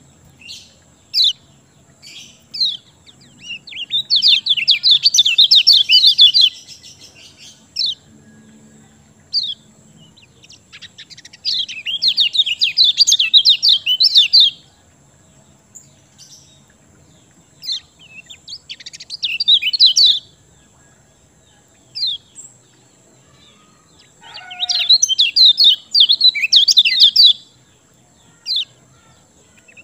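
Kecial kuning (yellow white-eye) singing in full voice. Three long bursts of rapid, high twittering song, about three seconds each, are separated by single short chirps.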